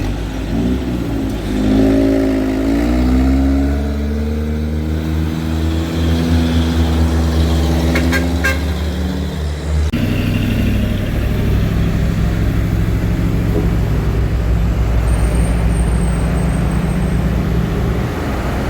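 Diesel truck engine working hard on a climb. Its pitch rises over the first few seconds and then holds high under load. About ten seconds in, it gives way to a steadier, lower engine drone.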